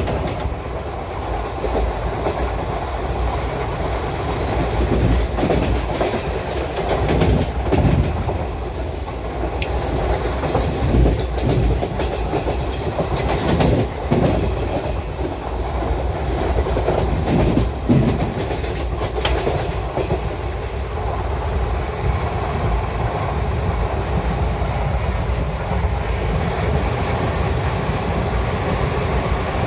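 Indian Railways ICF passenger coach running at speed, heard from inside at an open barred window: wheels clattering over rail joints in a steady clickety-clack over continuous running noise. Sharp clacks come in clusters through the middle, and the running smooths out later.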